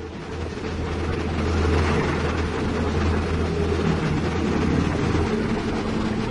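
Heavy diesel engine running steadily with a deep drone, growing louder over the first two seconds.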